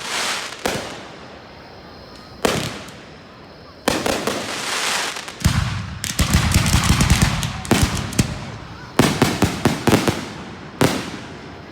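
Aerial fireworks going off: separate sharp bangs in the first few seconds, then a dense volley with a deep rumble around the middle, and a rapid string of crackling reports near the end.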